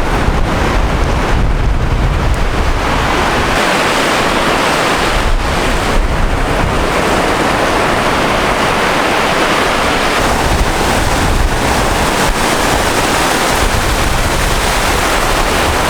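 Sea waves washing on the shore, mixed with wind buffeting the microphone in a steady, uneven low rumble.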